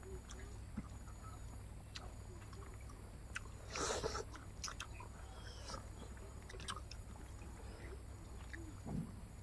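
Close-up chewing and lip-smacking of people eating rice and curry by hand, with scattered small clicks and a louder, noisier mouthful about four seconds in. A steady low hum runs underneath.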